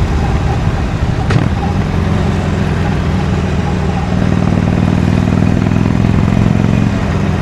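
Harley-Davidson Iron 883's air-cooled V-twin running on its stock exhaust while riding, under a steady rush of wind. A sharp click about a second in; the engine grows a little louder about four seconds in.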